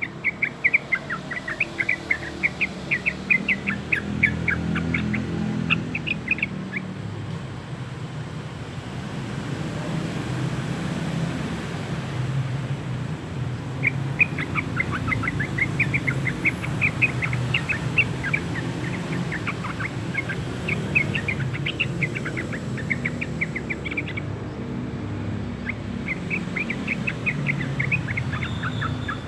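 A young sooty-headed bulbul, about two months old, practising its song: rapid runs of short, high chirps in bouts, with a pause of several seconds about a quarter of the way in. A steady low rumble runs underneath.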